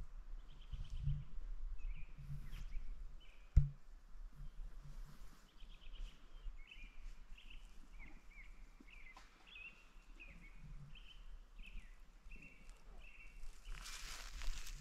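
Small birds calling outdoors in a string of short, buzzy notes, about two a second. There is one sharp knock about three and a half seconds in, and footsteps in dry grass near the end.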